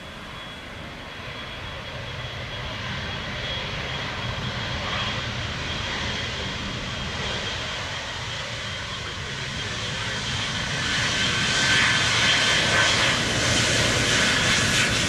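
Boeing 777's twin jet engines on landing, a thin steady high whine over a rushing engine noise that grows steadily louder and peaks about two-thirds of the way in.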